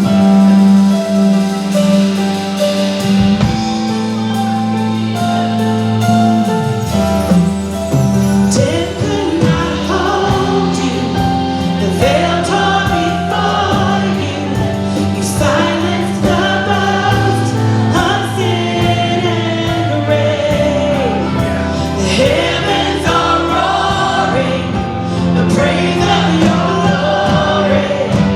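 Live church worship band playing a slow song with sustained keyboard chords and bass, with group singing coming in about eight seconds in and carrying on over the band.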